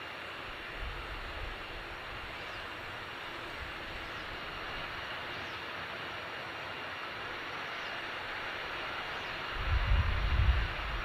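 Distant ATR 72-600 turboprop engines, a steady hissing drone, with gusts of wind buffeting the microphone, briefly about a second in and heavily near the end.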